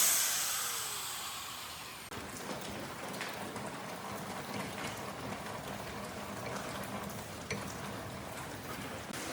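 A power tool cuts off and winds down, its whine fading over the first couple of seconds. A steady hiss with light scattered crackles follows.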